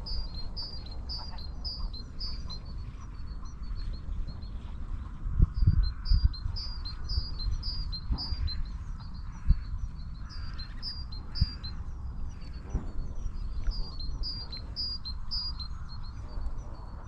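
A small bird chirping repeatedly, a short high note about three times a second in runs. Underneath, wind rumbles on the microphone, with a few louder gusts.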